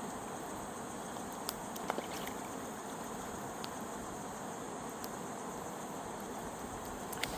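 Steady rushing of a fast mountain river, with a few faint clicks.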